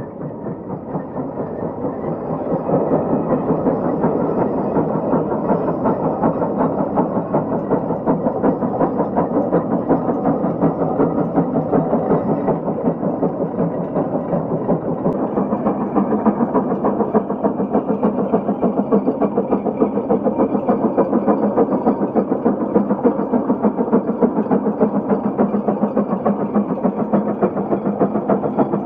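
Case 150 steam traction engine working under load, its exhaust chuffing in a rapid, even beat that grows louder over the first few seconds and then holds steady.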